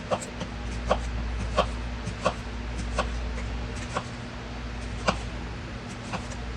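Kitchen knife slicing through cucumbers onto a cutting board: about eight short, sharp knocks spaced roughly a second apart, over a steady low hum.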